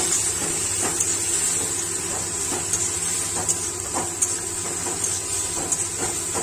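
Katla fish fat frying with sliced onions and green chillies in a karahi: a steady high sizzle as the fat gives out its own oil. A metal spatula scrapes and taps against the pan in short irregular strokes, every second or so.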